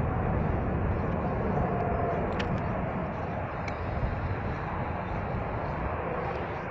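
Storm wind gusting across the microphone over the steady rumble of an airliner's jet engines, with a couple of faint clicks.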